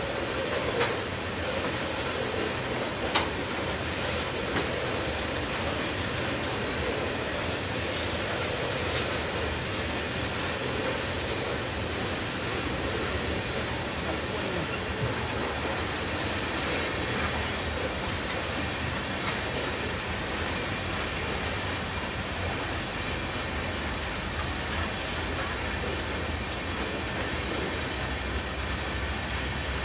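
Tank cars of a long freight train rolling past: steady wheel-on-rail noise with occasional clacks and a faint high wheel squeal.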